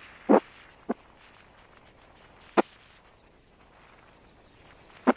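Four sharp clicks or knocks at uneven intervals: two close together near the start, one in the middle and one near the end, over a quiet outdoor background.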